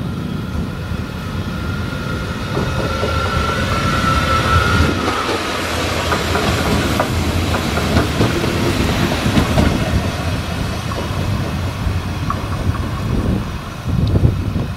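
Regional electric multiple unit passing close by, its wheels rumbling and clattering over the rail joints. A steady high-pitched whine runs through the first few seconds.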